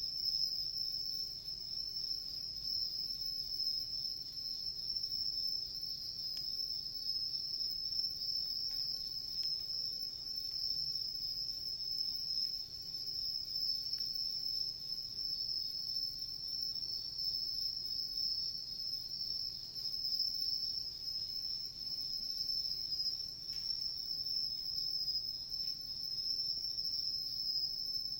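Crickets singing in a continuous, steady high-pitched trill, with a few faint crackles from the wood fire.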